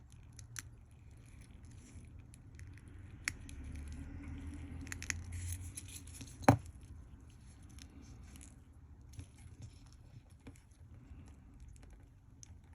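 Small taps and clicks of tiny watch parts and a small screwdriver being handled on a work surface, with one sharp, louder click about six and a half seconds in.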